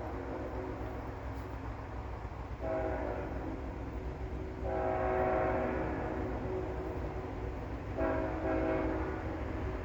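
Nathan K5HL five-chime air horn on a GE ET44AH locomotive sounding a horn show: a long chord that starts about two and a half seconds in and swells louder about two seconds later, then a shorter blast near the end. The low rumble of the approaching train runs underneath.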